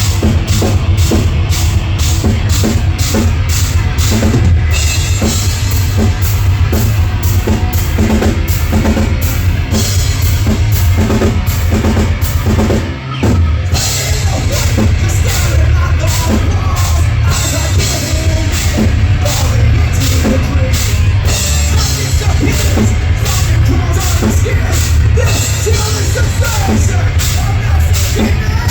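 Live heavy rock band playing loud, with a driving drum kit and distorted guitars and bass. The band cuts out for a brief moment about halfway through, then comes back in.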